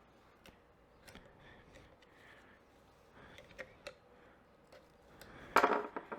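Small motorcycle fork parts being handled and worked apart by hand: scattered light clicks and taps, then a louder sharp clack about five and a half seconds in.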